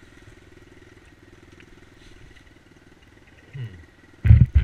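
Dirt bike engine idling steadily with an even, fast pulse. Near the end comes a loud low thump.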